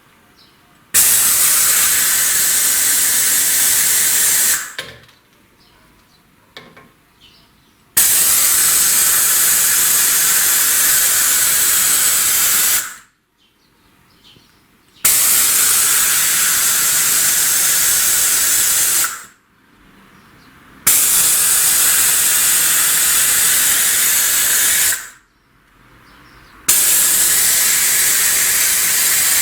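Compressed-air valve vacuum tester hissing in five bursts of about four seconds each, with short pauses between them. It is being pressed onto the cylinder head's ports one after another to check that the valves seal against their seats.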